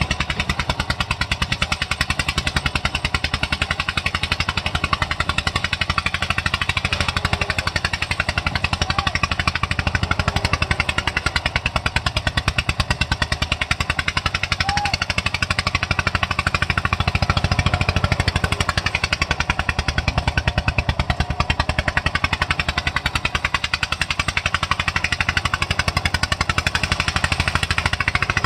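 Eicher tractor's diesel engine running hard under load, with a rapid, steady firing beat.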